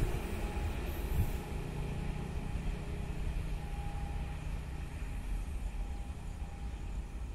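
Goods train running away into the distance: a steady low rumble of wheels on the rails fading after the first second or two, with a faint high wheel squeal coming and going.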